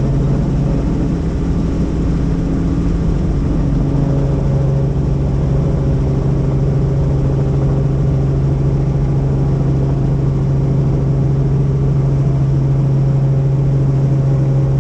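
Helicopter engine and rotor running in flight: a loud, steady drone with a strong low hum.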